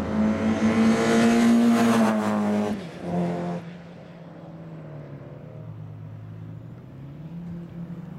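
Alfa Romeo 145 race car's engine at high revs passing close by, its pitch dropping as it goes past. After about three seconds it gives way to the faint, steady engine noise of cars further down the track.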